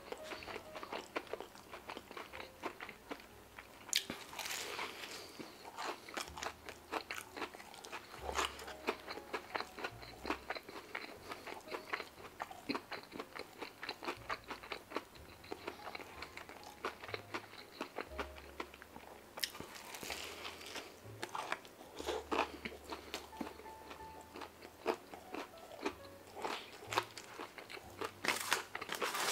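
Close-miked chewing of a crunchy slider sandwich: an irregular run of small wet crunches and mouth clicks, with louder bites about four seconds in, around twenty seconds and again near the end.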